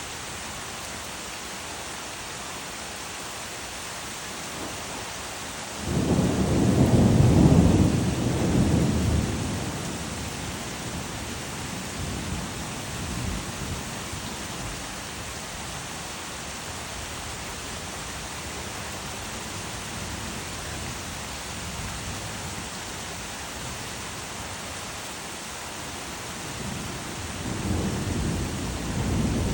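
Steady rain with thunder: a loud peal comes in suddenly about six seconds in and rolls away over about four seconds, with softer rumbles after it, and a second rumble of thunder builds near the end.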